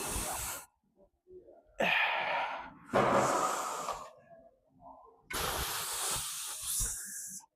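A man breathing hard with strained effort while lifting: four loud, forceful exhales in a row, each about a second long, with short gaps between.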